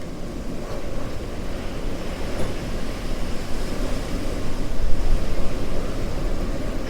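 A vehicle driving, with a steady low rumble of engine and tyres on a dirt road and some wind, a little louder about five seconds in.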